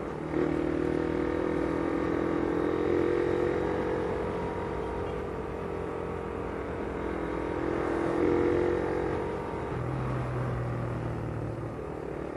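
Motorcycle engine running at a steady pace while riding, with road and wind noise. The engine note drops lower for a couple of seconds near the end, then picks back up.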